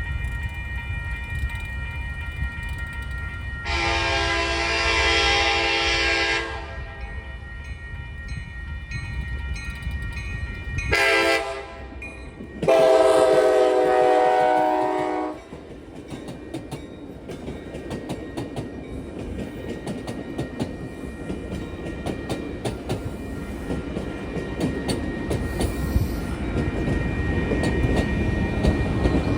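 Altamont Corridor Express passenger train's horn sounding for the grade crossing: a long blast, a short one, then a final long blast, over the low rumble of the train that grows louder toward the end. A railroad crossing bell rings steadily underneath.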